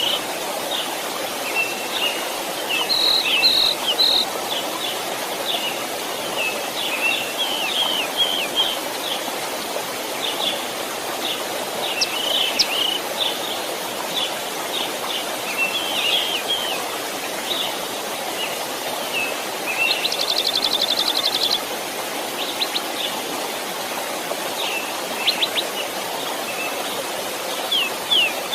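Stream flowing steadily, with many small birds chirping over it. About two-thirds of the way through, a rapid trill of roughly ten notes a second rings out for a second and a half.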